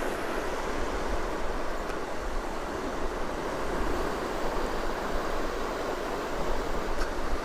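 Steady rush of surf on the beach, with wind rumbling on the microphone.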